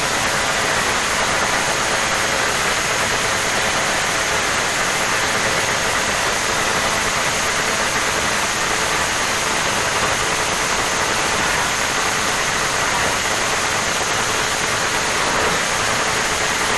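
Honda TMX 155 motorcycle's single-cylinder engine roaring steadily and loudly through its exhaust.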